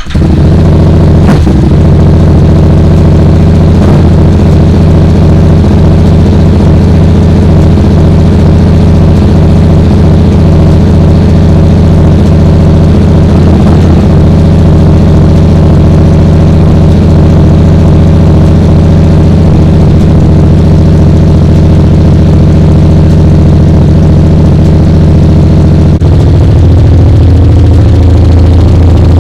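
2016 Yamaha FZ-07's parallel-twin engine, breathing through an Akrapovic exhaust, catching on a cold start and running at a loud, steady idle. About 26 seconds in, the idle note shifts lower.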